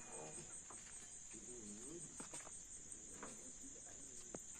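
Insects chirping in a steady high trill, with a faint distant voice about one and a half seconds in and a few light clicks.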